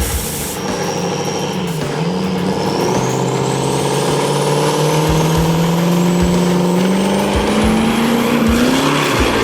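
A truck engine accelerating hard at a drag strip, its pitch dipping briefly about two seconds in, then climbing steadily, with a faint high whistle rising alongside.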